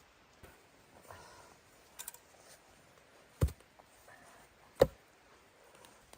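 Two sharp knocks about a second and a half apart, with lighter clicks and rustling before them.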